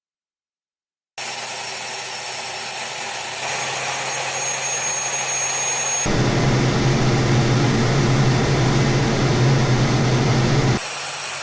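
Jet aircraft engines running on a carrier deck: a steady, loud noise that starts suddenly after about a second of silence and changes abruptly at three hard cuts, the middle stretch carrying a strong deep hum.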